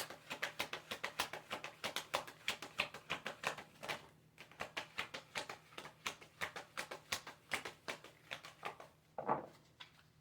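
Tarot cards being shuffled by hand: a fast run of light card slaps, about six or seven a second, thinning out about four seconds in. A single soft thump comes near the end.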